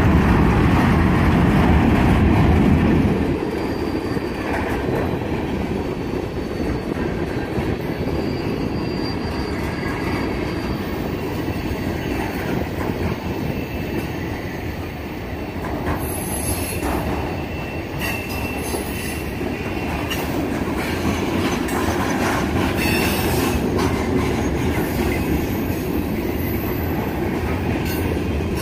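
Freight cars of a CSX mixed freight train rolling past on the rails with a continuous rumble. It is loudest for about the first three seconds, then settles to a steadier, lower level.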